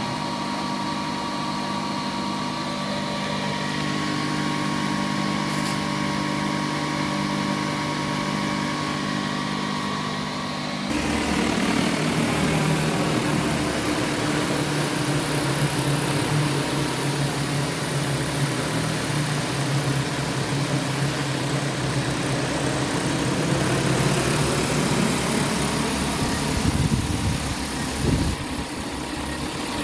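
Steady electrical-machine hum from a single-phase to three-phase transformer and drone battery charger running under load. About eleven seconds in, it gets louder and noisier with a brief rising whine, as if a cooling fan spins up, then runs on steadily.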